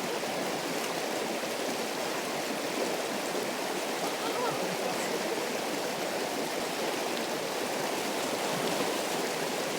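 A river running: a steady, even rush of flowing water.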